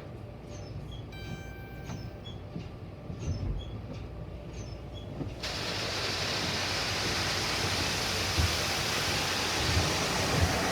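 Car wash machinery: a low rumble with faint repeated squeaks, then about halfway through a loud, steady rushing hiss switches on suddenly.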